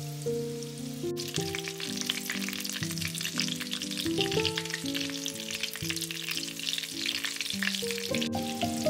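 Food frying in a pan: a dense sizzle and crackle that starts about a second in, under background music.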